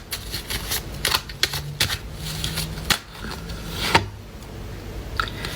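Tarot cards being shuffled by hand: a run of quick, irregular card snaps and clicks for about four seconds, then softer handling of the deck.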